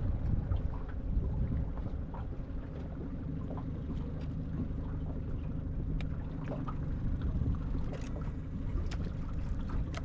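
Small fishing boat drifting on a windy lake: wind rumbling on the microphone over a faint steady hum, with scattered light knocks of water slapping against the hull.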